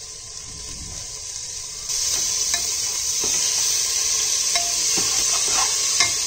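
Onion-tomato masala frying in oil in a pressure cooker, sizzling, louder from about two seconds in, while a steel spoon stirs in chopped coriander with a few scrapes and taps against the pot.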